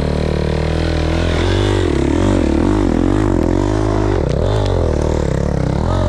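Dirt bike engine running close to the microphone. It holds steady at first, then from about a second and a half in the revs rise and fall over and over, a couple of times a second, as the throttle is worked while riding rough ground.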